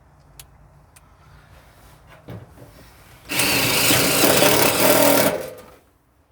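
Power drill driving a self-tapping screw into sheet-metal floor, running hard for about two seconds after a few light clicks.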